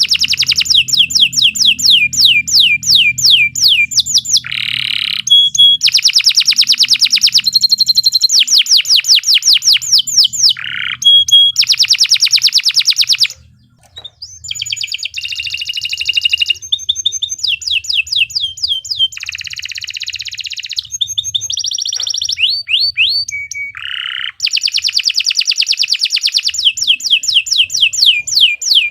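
Domestic canary singing a long song of fast trills and rapidly repeated sweeping notes, with a brief pause a little under halfway through.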